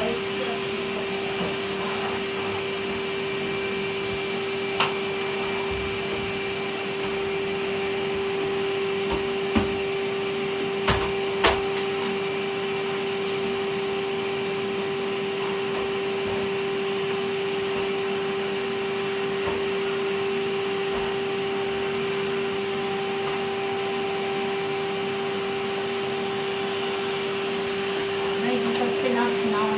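Vacuum cleaner running steadily with a constant motor whine, with a few sharp knocks around the middle.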